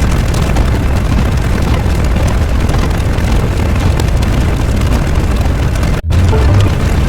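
A loud, steady rumbling noise, strongest in the bass, that cuts out for an instant about six seconds in and then resumes.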